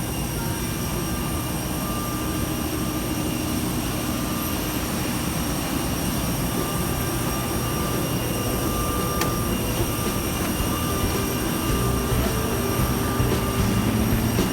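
Steady mechanical hum and rushing air inside an Airbus A319 cabin parked after arrival, with several thin steady whine tones over it, growing slightly louder toward the end.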